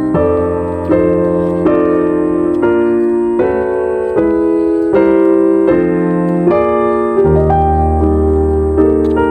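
Background music: piano playing slow sustained chords and notes, changing roughly once a second.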